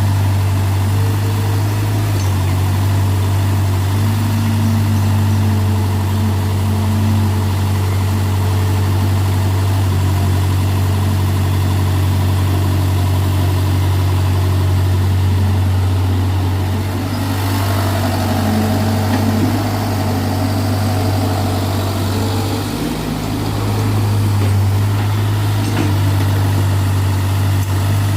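Sonalika DI-35 RX tractor's diesel engine running steadily, with a brief change in its note about five seconds before the end.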